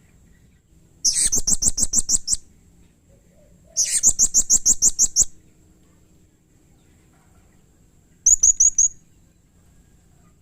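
Blue-crowned hanging parrot (serindit) calling in three bursts of rapid, high-pitched chips repeated several times a second. The first two bursts last about a second and a half each, and the last, shorter burst comes near the end.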